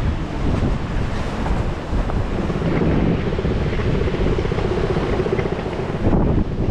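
Wind buffeting the microphone over sea surf. From about halfway through, a steady low hum runs underneath.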